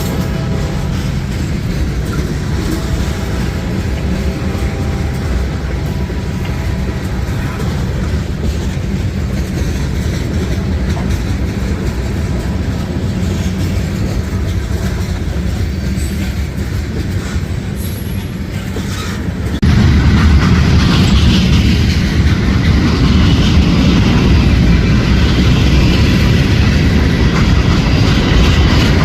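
Freight train rolling past, its cars' wheels clacking and rumbling on the rails, after the last of a locomotive horn blast dies away at the start. About two-thirds of the way through the sound jumps suddenly louder and stays so.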